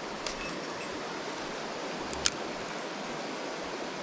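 Mountain stream rushing steadily, with a sharp click about two seconds in and a fainter one just before.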